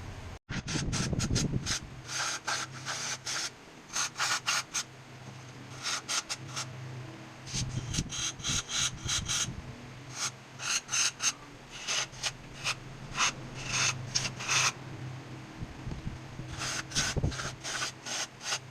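Quick runs of short rubbing strokes, several a second, as the throttle body is scrubbed clean, over a steady low hum.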